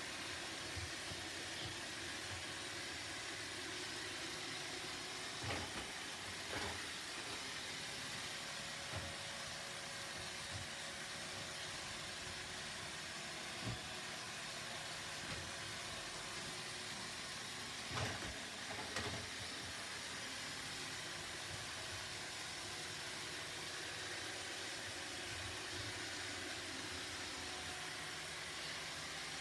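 Roomba robot vacuum running steadily, its motor and brushes making an even whirring hiss, broken by a few short knocks.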